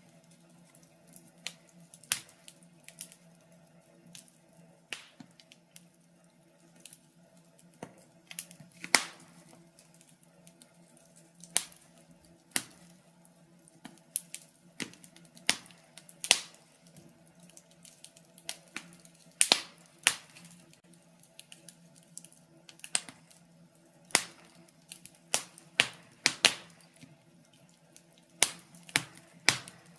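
Wood fire crackling in a fireplace: irregular sharp pops and snaps, sometimes a few close together, over a faint steady low hum.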